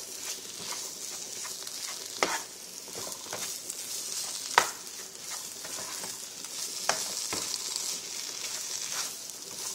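Red curry paste sizzling in oil in a nonstick frying pan while being stirred with a spatula, with a steady hiss and a few sharp taps of the spatula against the pan.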